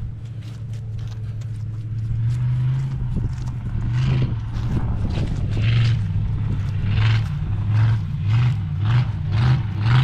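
A vehicle engine running steadily, with a rhythmic rattling or swishing that comes in about halfway through and repeats about twice a second, louder than the engine.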